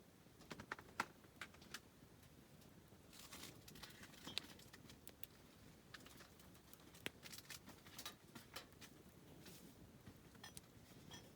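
Wood campfire crackling: irregular sharp pops and snaps from burning wood over a faint hiss of flame, thickening into quick runs of pops about three seconds in and again near the middle.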